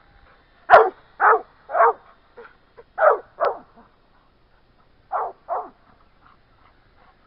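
A dog barking: a run of about five short barks, then two more after a pause of a second and a half.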